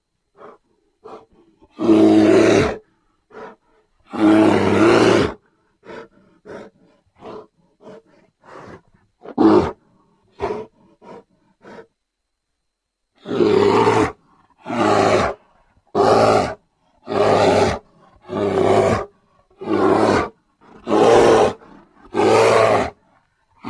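Grizzly bear roaring: two long roars, then a run of short grunts, and after a brief pause a series of about nine roars in a steady rhythm, roughly one a second.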